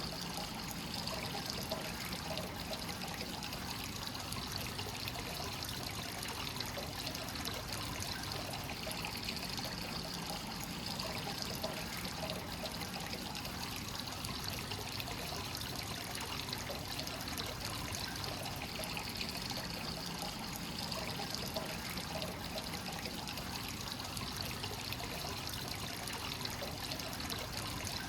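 Hot spring water pouring and trickling steadily into a bath: the continuous inflow of a free-flowing (kakenagashi) onsen.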